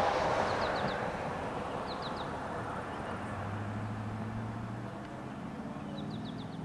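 A broad rushing noise, like a passing vehicle, fades away over the first second. A bird then chirps in three short bursts of three or four quick high notes, over a low steady drone that comes in about halfway.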